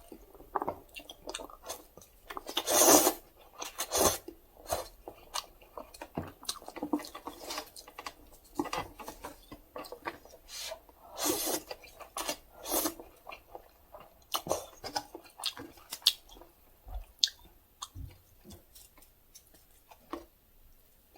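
A person chewing a mouthful of Doshirak cup instant noodles in short, irregular bursts of eating noise, the loudest about three seconds in and again around eleven to thirteen seconds.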